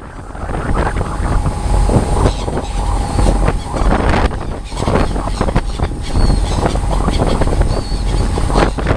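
Wind buffeting the microphone over the steady running of a boat's engine and water, with a few faint, short seagull calls.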